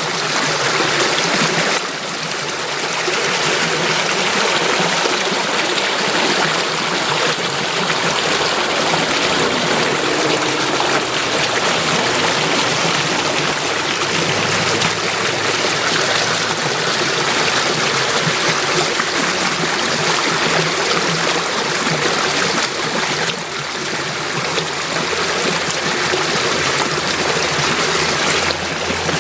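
Running water flowing steadily, a continuous even rush like a stream.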